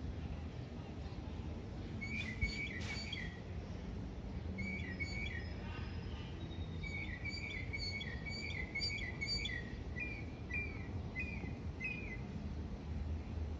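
A small songbird chirping: a brief cluster of short, repeated notes about two seconds in, then a long series of them that stops near the end. Under the chirps runs a steady low rumble.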